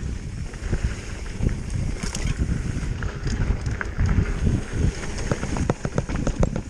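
Wind buffeting the microphone of a camera on a moving mountain bike, over tyre noise on a dirt trail, with many sharp clicks and knocks from the bike rattling over rough ground, thickest in the second half.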